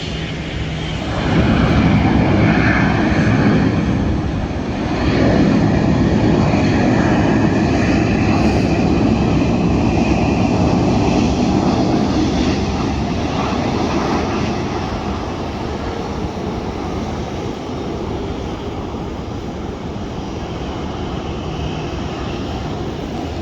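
A jet airliner passing close by: engine noise swells about a second in, stays loud for several seconds, then slowly fades.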